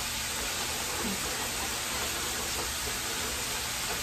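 Ground beef, bell peppers and onions sizzling steadily in a skillet on a gas stove.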